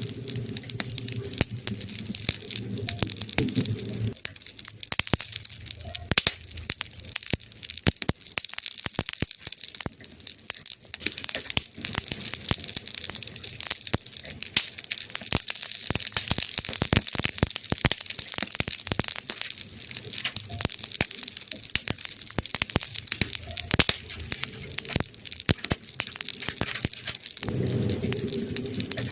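Wood fire crackling, with many sharp pops and snaps over a steady hiss. A low rumble is heard for the first four seconds and again near the end.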